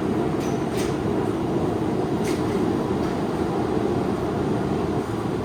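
Forge running with a steady low roar, with two faint ticks about a second in and just past two seconds.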